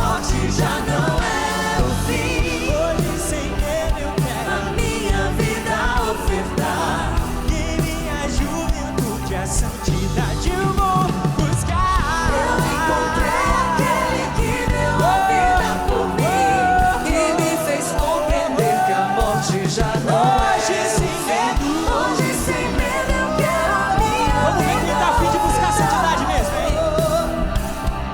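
Live band playing a pop-style Catholic worship song, with a lead voice singing held, bending melodic lines over drums and full accompaniment.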